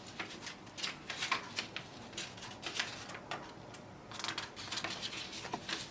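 Packaging being handled by hand: scattered light clicks and rustles of cardboard and paper.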